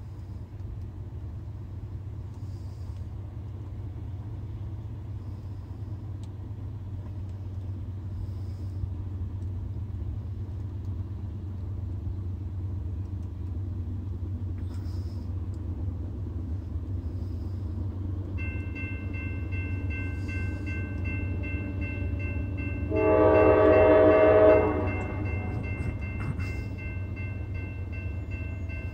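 Diesel freight locomotive rumbling low and steady. About two-thirds of the way through, the grade-crossing bell starts ringing steadily. A few seconds later the locomotive horn sounds one blast of about a second and a half, the loudest sound here.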